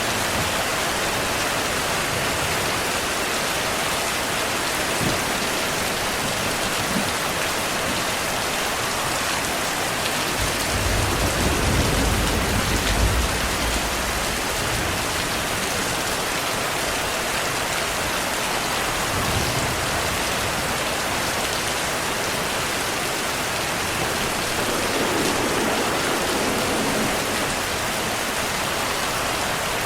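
Steady rain falling, with a low rumble of distant thunder swelling for a few seconds about ten seconds in.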